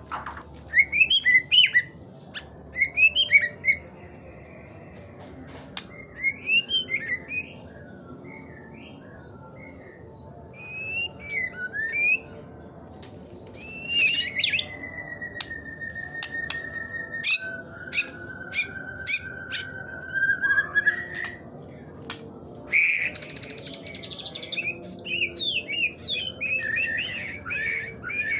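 White-rumped shama singing a run of short, varied whistled phrases, with a long, nearly level whistle lasting several seconds about halfway through, crossed by a series of sharp clicks, and quick chattering phrases near the end.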